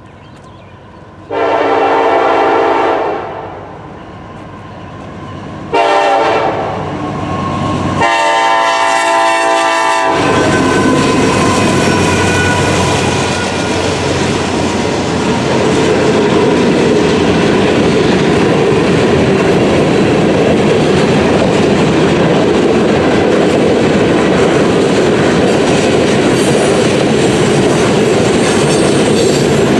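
Norfolk Southern SD70ACe diesel locomotive's horn sounding a long blast, a short blast and another long blast. After that the freight train rolls past with a steady rumble and the clickety-clack of wheels over rail joints.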